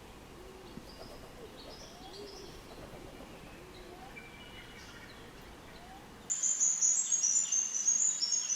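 Birds calling: faint, scattered short chirps, then about six seconds in, much louder rapid high-pitched twittering starts abruptly.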